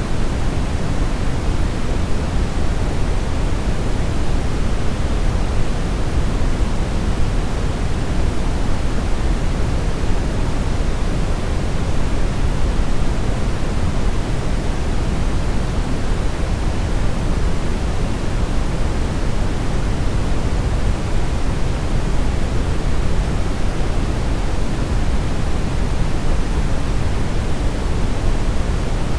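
Brown noise: a steady, even rushing hiss weighted heavily toward the low end, with no changes.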